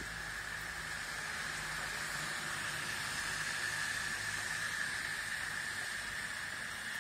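Steady hiss of heavy rain, with muddy floodwater running down the street.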